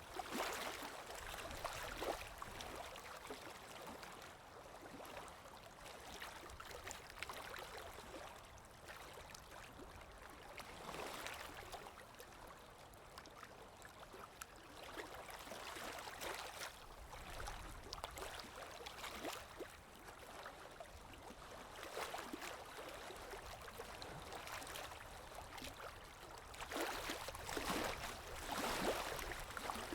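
Water lapping with wind: a steady wash with soft swells every few seconds, louder near the end.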